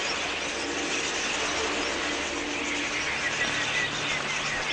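Large flock of budgerigars chattering, a dense continuous twittering of many birds at once.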